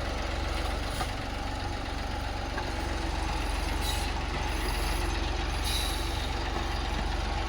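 Tractor diesel engine running steadily, with a brief hiss twice midway.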